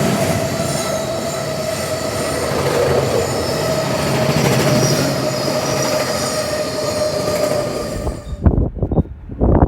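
Freight train wagons rolling past with a steady high-pitched wheel squeal. About eight seconds in the train sound stops abruptly, and irregular low thumps follow.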